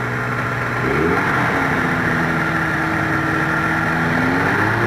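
Quicksilver GT 500 ultralight's engine and propeller running, revving up about a second in and holding at higher power, then easing back near the end, as the pilot applies power to taxi the plane on its amphibious floats.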